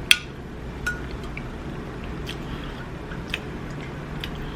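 Close-miked eating sounds: a series of short wet clicks and smacks while chewing and handling king crab and egg, the sharpest one just after the start, over a low steady hum.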